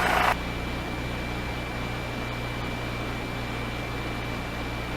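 Steady hiss and low electrical hum of a police radio channel between transmissions, with a faint high steady tone; a louder burst of squelch noise cuts off just after the start.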